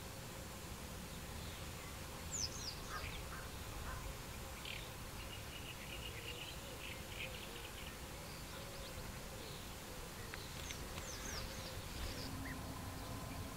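Small birds singing and chirping: scattered high calls, a few quick downward-sweeping notes about two seconds in and again near the end, and a run of trilled notes in the middle, over a low steady rumble.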